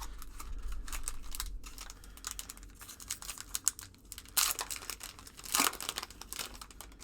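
A basketball card pack wrapper being torn open and crinkled by hand, a dense crackle with two louder rips about four and a half and five and a half seconds in.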